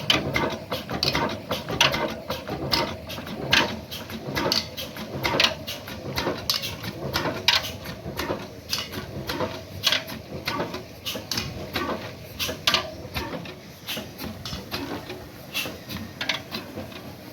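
Old Ruston Hornsby 35 HP oil engine running steadily, its mechanism clattering: a heavier knock about once a second with lighter clicks between.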